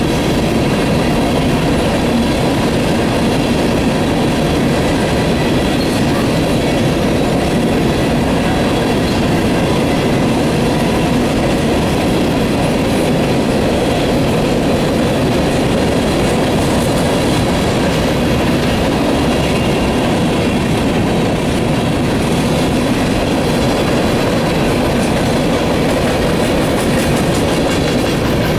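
Loaded-style coal train of aluminium bathtub gondolas rolling steadily past, a continuous rumble of steel wheels on rail with a clattering rhythm as the trucks cross the joints.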